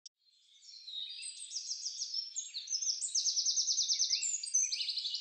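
Several songbirds chirping and trilling together, high-pitched, starting about half a second in, with quick trills of about a dozen notes a second.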